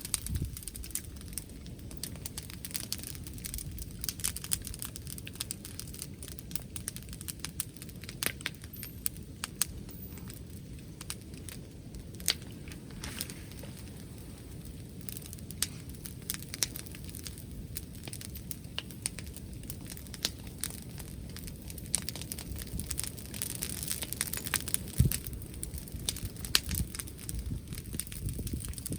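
Wood bonfire crackling, with frequent sharp pops and snaps, over a low rumble of wind.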